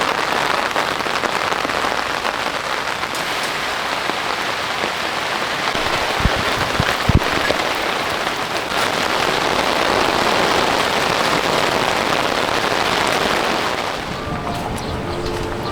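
Steady hiss of heavy rain, with a couple of dull knocks about halfway through.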